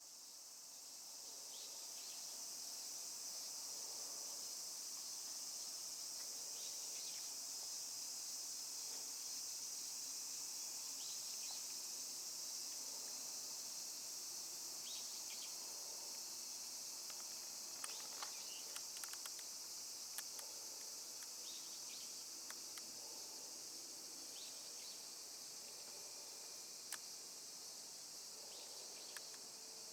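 Steady, high-pitched chorus of insects chirring, with a few faint clicks in the second half.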